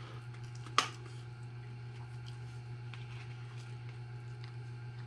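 Quiet chewing of pizza, with one sharp click about a second in and faint small ticks after it, over a steady low hum.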